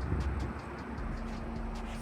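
A car engine idling: a steady low rumble with a steady hum, with faint regular ticking above it.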